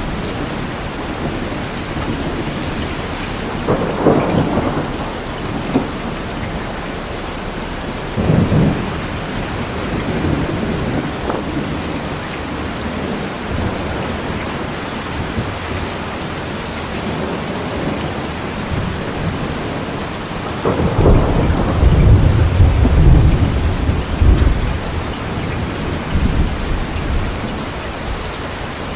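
Steady rain falling through a thunderstorm, with rolls of thunder: shorter rumbles about 4 and 8 seconds in, and a longer, louder low rumble from about 21 to 25 seconds in.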